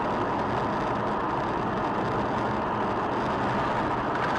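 Steady road and engine noise of a moving car, heard from inside the cabin, with no impact or sudden sound.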